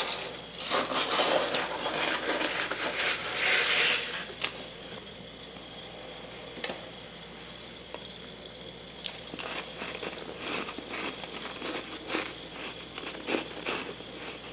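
Soft freezer frost being bitten and chewed: dense crunching for the first four seconds or so, a lull, then a run of lighter crackling chews from about nine seconds in. A faint steady high whine sits underneath.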